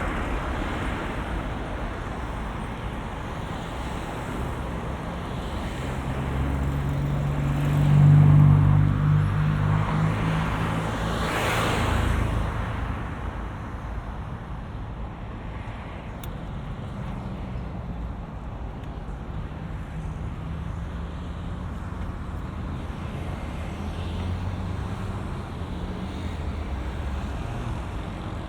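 Road traffic on a busy bridge heard from a bicycle: steady tyre and engine noise, with a motor vehicle passing close about eight seconds in, its low engine hum swelling and a brief rush of tyre noise as it goes by, before the traffic settles back to a steady hum.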